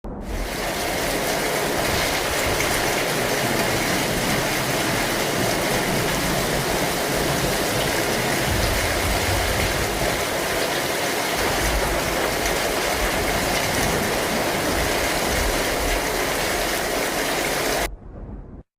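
Heavy rain falling, a steady dense hiss that cuts off abruptly near the end.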